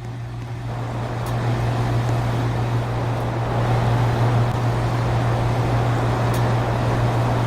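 BGH air conditioner running just after switching on: a steady low hum under a rush of moving air that builds over the first few seconds, then holds steady.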